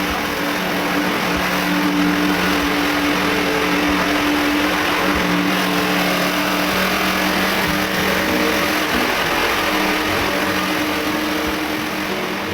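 Small engine running steadily with a constant hum, typical of yard-work power equipment.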